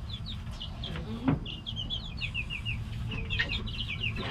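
Chickens chirping and peeping: many short, high calls in quick runs, with a single knock a little over a second in.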